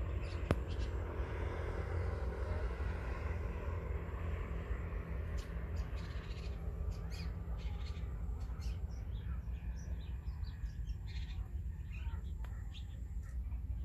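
Wild birds calling in short, scattered chirps over a steady low rumble.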